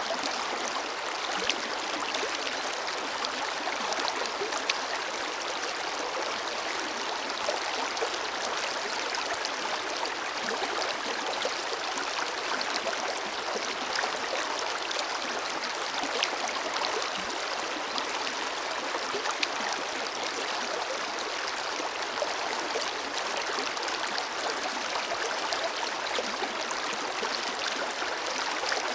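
Forest river flowing steadily over stones, an even rush of water with small splashes and trickles scattered through it.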